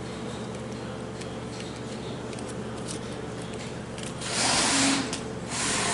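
Handling noises from work on a transmission valve body over a steady hum, ending in two short loud rushing sounds a little over four seconds in and again near the end.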